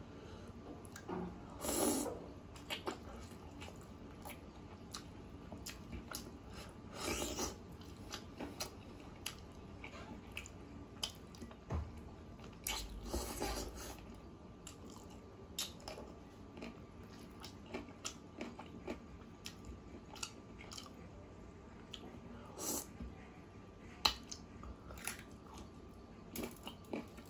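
Close-miked chewing and biting of chicken curry in gravy, with many short wet mouth clicks and a few louder, longer bites spaced through.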